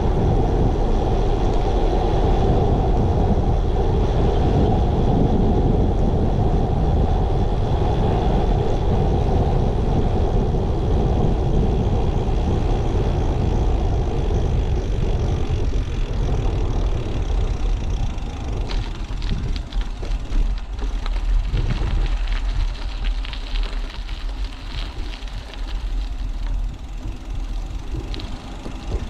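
Wind rushing over a bike-mounted action camera's microphone, mixed with tyre and road noise while riding. It eases about halfway through, then gives way to scattered ticks and rattles.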